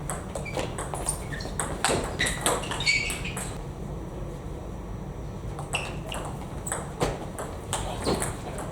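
Table tennis rallies: the ball clicking sharply and irregularly off bats and table, with a lull in the middle before play starts again.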